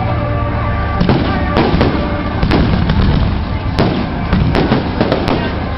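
Fireworks going off: a string of sharp bangs and crackles at irregular intervals, some in quick succession, over a steady low background noise.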